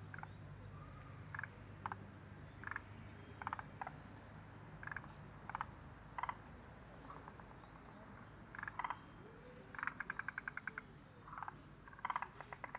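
Frogs calling: short croaking notes every second or so, then rattling pulse trains of about ten clicks a second near the middle and again near the end.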